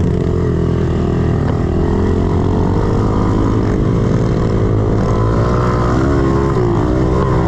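A 110cc pit bike's single-cylinder four-stroke engine runs steadily under throttle while being ridden. Its pitch wavers up and down in the second half as the throttle is worked.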